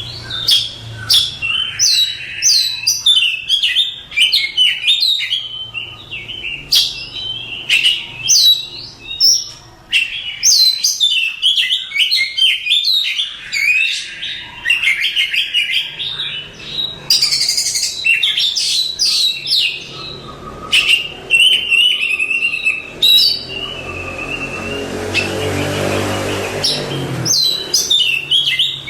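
Oriental magpie-robin (kacer) singing a loud, fast, varied song of sweeping whistles and chattering notes, with a short run of repeated lower notes in the last third. A low hum swells in the background for a few seconds near the end.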